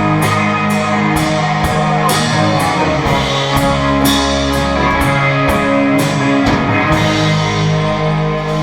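Live rock band playing without vocals: guitars, bass guitar and drum kit. The drums and cymbals stop about seven seconds in, leaving the guitars and bass ringing on.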